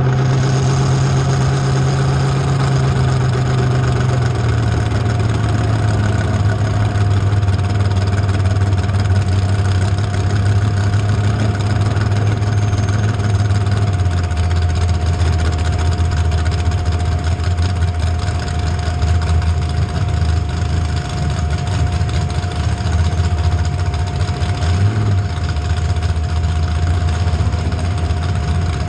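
Demolition derby car engines running at a steady idle, the engine note stepping down in pitch about four seconds in and again around fourteen seconds.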